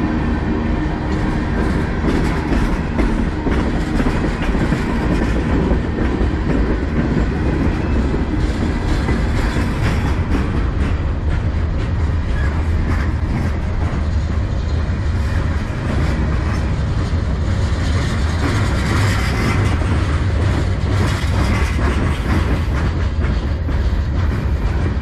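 CN manifest freight train's tank cars and boxcars rolling past close by: a loud, steady rumble of steel wheels on rail, with repeated clicking as the wheels cross rail joints.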